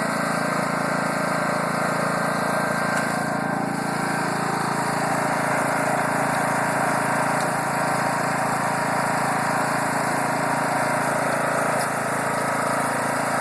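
Small tractor engine running steadily at a constant speed.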